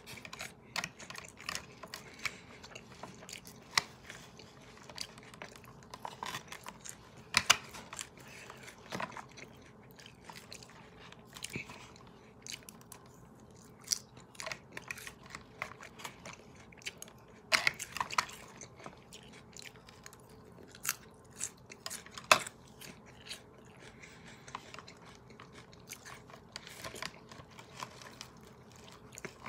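A person biting and chewing crisp lettuce salad close to the microphone: irregular crunches and mouth clicks, with a handful of louder crunches standing out.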